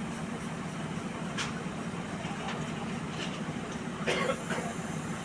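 Diesel train engine idling with a steady low hum, with a few sharp clicks and a short louder knock about four seconds in.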